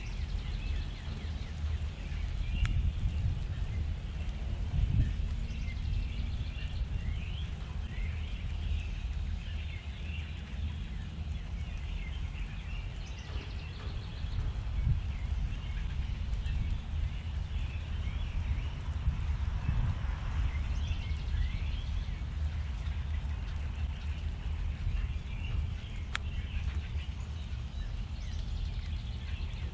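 Small birds giving short, high chirps over and over around a backyard feeder, over a steady low rumble.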